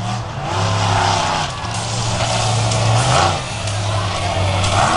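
Monster truck engine running hard, its revs rising and falling several times.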